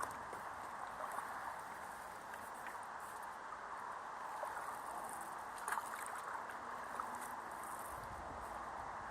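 Water splashing and trickling around a paddle board moving on a river, with a few light, sharper splashes.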